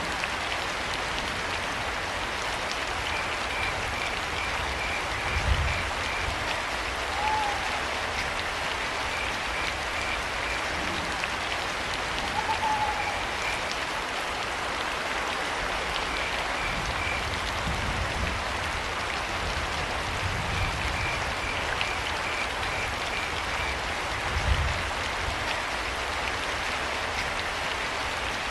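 Steady rain falling, with crickets chirping in short pulsed trains and a few brief arched owl calls. Two low thumps stand out, about five seconds in and again near the end.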